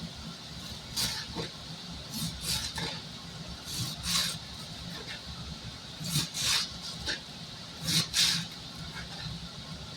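Small serrated steak knife sawing through crisp lettuce on a cutting board: short crunchy strokes, mostly in pairs, every second or two.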